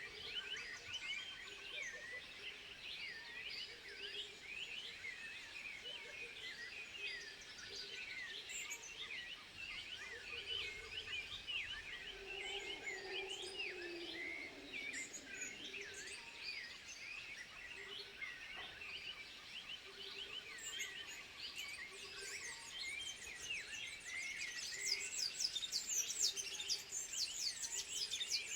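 Dense chorus of overlapping chirping, twittering animal calls, with a slower series of lower calls underneath, one gliding down about halfway through. Near the end a rapid, higher trill joins and the chorus grows louder.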